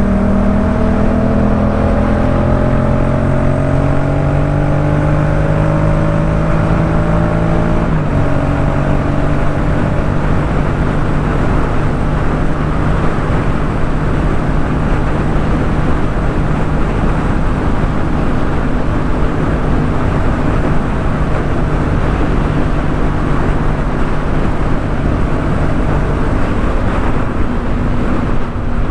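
Yamaha MT-07's parallel-twin engine through a Jeskap K4 full exhaust, pulling in gear with its pitch slowly rising for about eight seconds, then shifting up and cruising at a steady note over a steady rushing noise.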